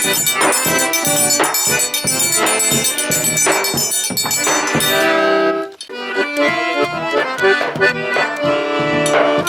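Forró pé-de-serra played live, instrumental: accordion carrying the melody over a steady percussion beat, with a brief break about six seconds in before the playing picks up again.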